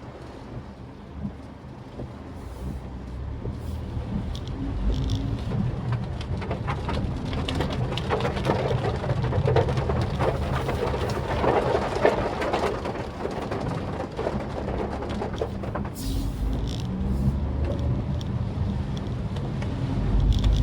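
Maruti Suzuki Swift Dzire driving in rain: low engine hum and tyre noise on a wet road, with a crackling patter of rain. It grows louder about four seconds in.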